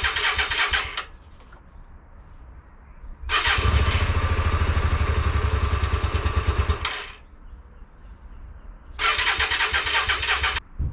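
Hyosung GV Aquila 125 motorcycle being cranked on its electric starter in three attempts without firing: a burst ending about a second in, a longer crank from about three to seven seconds, and a short one near the end. The cranking is slowing as the battery runs down.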